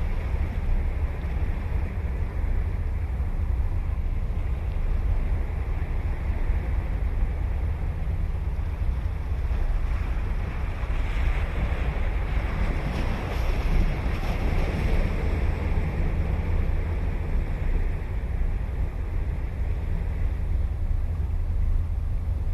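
Ocean waves breaking and washing up a beach, swelling about halfway through, with a steady low rumble of wind on the microphone.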